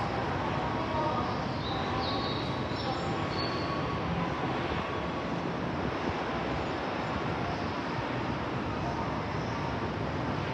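Electric commuter train running through the station, a steady rumble of rail and running noise with no sudden events.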